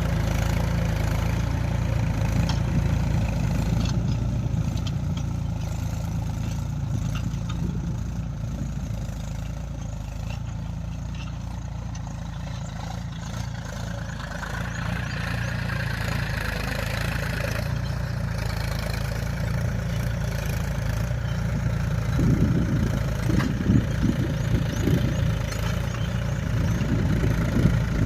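Mahindra tractor's diesel engine running steadily, dipping slightly in level about a third of the way through, with uneven louder surges in the last few seconds.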